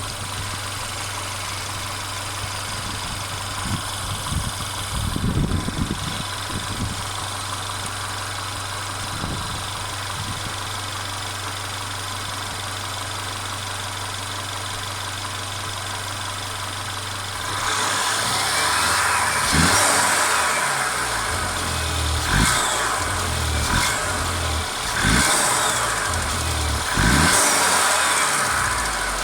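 Mercedes CLA 250's 2.0-litre turbocharged four-cylinder engine idling steadily. From about 17 seconds in, the engine speed rises and falls several times and the sound grows louder.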